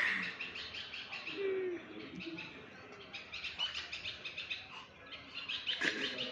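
Birds chirping in quick, evenly repeated high notes, with a faint short low coo about a second and a half in and a louder voice beginning near the end.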